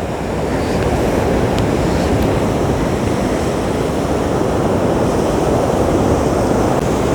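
Sea surf: waves breaking and washing up the beach in a steady rushing noise, growing a little louder over the first second.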